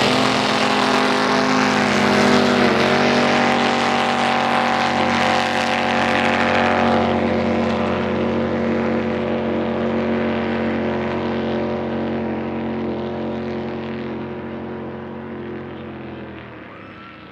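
Race drag boat engine running at full throttle on a pass, holding one steady pitch while it slowly fades and dulls with distance. The engine cuts off near the end.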